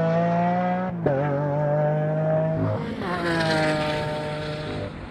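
Lamborghini Aventador S's V12 engine running hard as a steady pitched note that steps to a new pitch about a second in and again just before three seconds, as the car comes off the end of the quarter-mile run.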